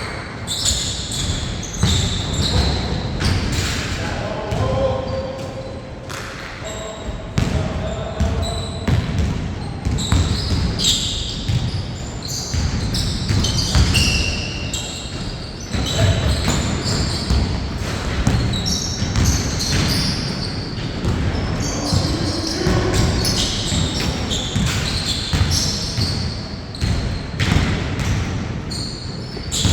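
Basketball being dribbled and bounced on a court during a 4-on-4 game, many sharp thuds throughout, with short high squeaks and players calling out.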